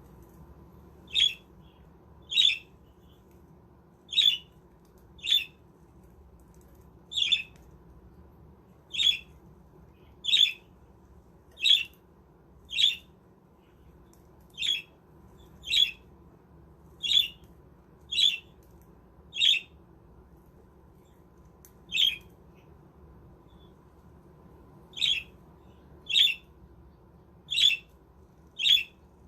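Budgerigar giving short, sharp calls, one about every second or so, around twenty in all, with a couple of longer pauses.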